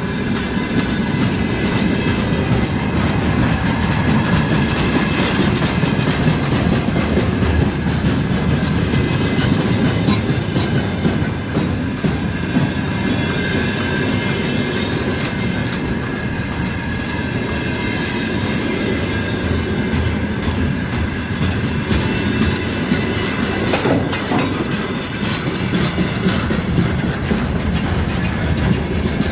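Container flat wagons of a freight train rolling past close by: a steady heavy rumble with wheels clattering over the rail joints.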